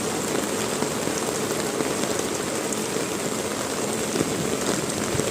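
Heavy rain falling steadily, a dense hiss with many fine drop ticks.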